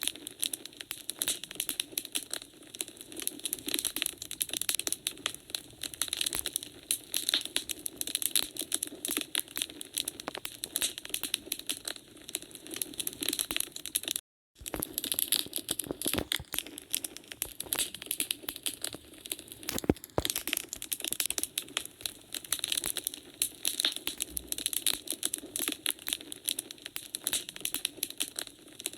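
Wood fire in a fireplace crackling: a dense run of small pops and snaps. The sound cuts out completely for a split second about halfway through, and there is a sharper single pop about two-thirds of the way in.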